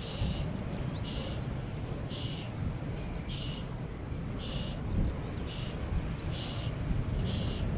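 Strong wind buffeting the microphone with a steady low rumble. A short, high-pitched chirp repeats about once a second over it.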